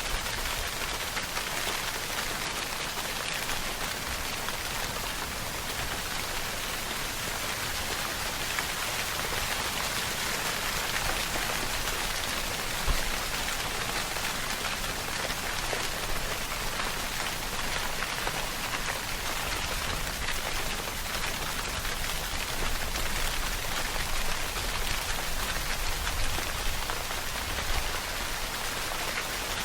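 Steady, heavy rainfall, a dense even patter of raindrops on surfaces, with one sharper tap about halfway through.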